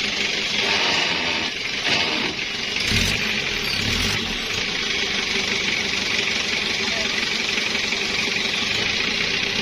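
Pickup truck engine running steadily at idle, with a few low thumps about two to four seconds in.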